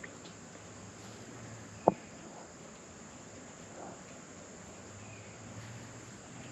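Steady high-pitched chirring of insects, with one sharp click about two seconds in.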